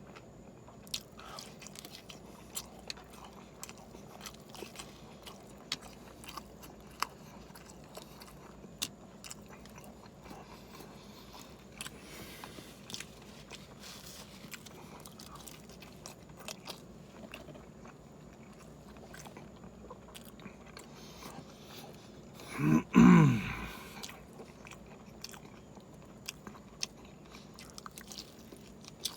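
A person chewing and biting into a multi-patty cheeseburger: steady mouth noises with many small, irregular clicks and smacks. About three quarters of the way through comes one brief, much louder sound from the throat that falls in pitch.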